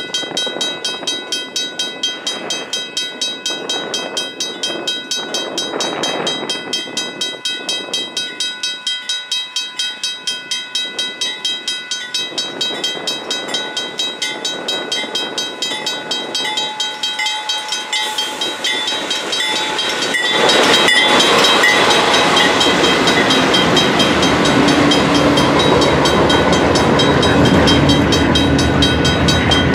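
A grade-crossing bell ringing in a fast, even beat while CN's GE Dash 8 diesel locomotives (a C40-8W and a C40-8M) come on slowly, their engines growing louder. About twenty seconds in the locomotives pass close and the sound jumps to loud engine noise, then freight cars roll by.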